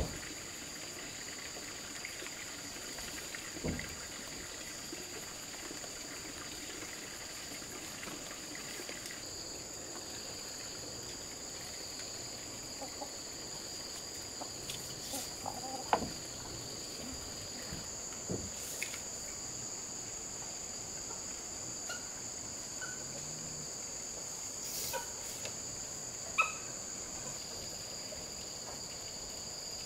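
Steady chorus of insects, two constant shrill high tones, with a few scattered knocks and taps.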